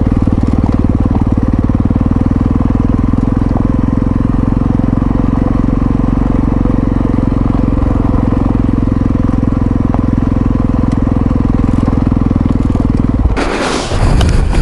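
Yamaha XT660Z Ténéré's single-cylinder engine running steadily at an even speed under way. About 13 seconds in, it is cut off abruptly by a loud rushing, rumbling noise.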